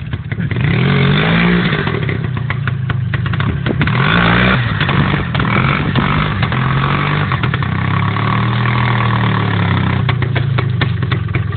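Motorcycle engine running and being revved, its pitch rising about a second in and again around four seconds in, then holding with small swells up and down.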